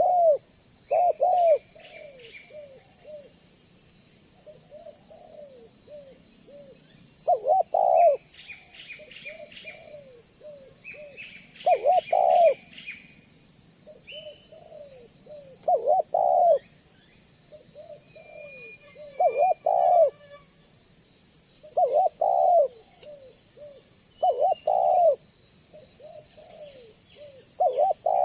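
Spotted dove (tekukur) cooing: a loud phrase of a few coos about every three to four seconds, with softer coos in between. It is the deep 'banggo' style of call used as a lure to draw other doves in.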